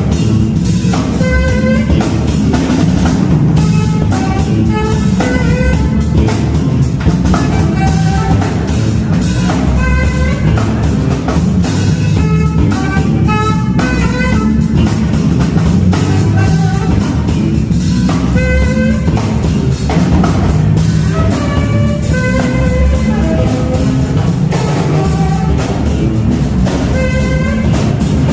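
Music with a drum kit and guitar playing steadily, a melody in short repeated phrases over a constant beat.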